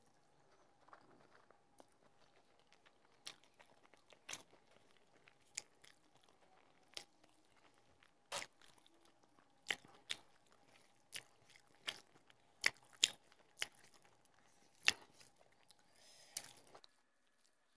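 Close-miked eating sounds of a person chewing handfuls of rice and curry: sharp, irregular wet clicks and smacks, roughly one a second, that stop shortly before the end.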